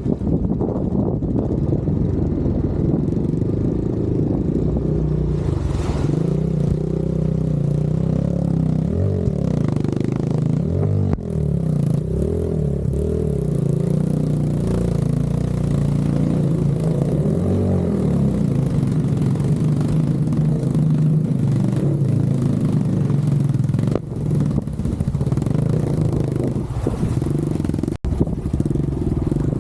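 KAYO T4 enduro motorcycle's engine running as the bike is ridden, revs rising and falling. A steady hiss joins it about eleven seconds in.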